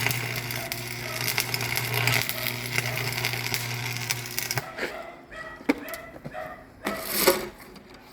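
A motor-driven machine running with a steady low hum and dense crackling noise, which cuts off abruptly about four and a half seconds in; scattered knocks and a short louder rustling noise follow.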